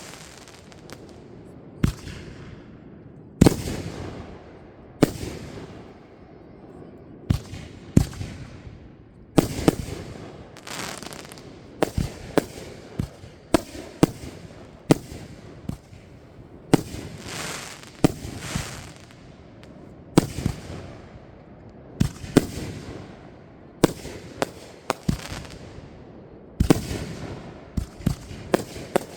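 Fireworks display: a steady run of aerial shells bursting, a sharp bang every second or two, many of them trailing a crackling hiss that fades over a second or so.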